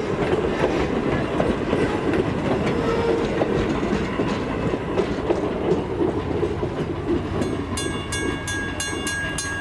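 Passenger excursion train rolling past at low speed, its wheels clacking over the rail joints in a steady rumble. Near the end, a railroad crossing bell starts ringing with fast, even strikes, about three a second.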